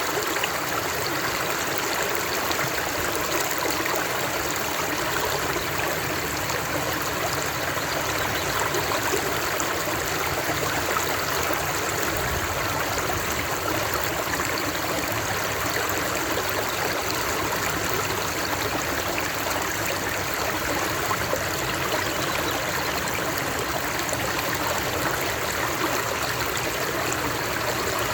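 Water running steadily in a stream, an even rushing and trickling that does not change.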